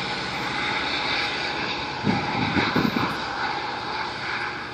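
GO Transit commuter train rumbling steadily as it pulls away down the track, slowly fading. A few loud low thumps about two seconds in.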